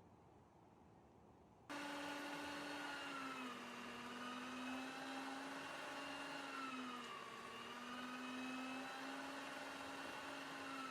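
Small electric motor running with a steady hum that starts abruptly about two seconds in and sags slightly in pitch twice, as if briefly loaded.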